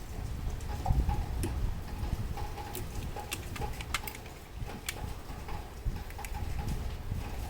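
Irregular light clicks and ticks from a grandfather clock's mechanical movement, over a low rumble.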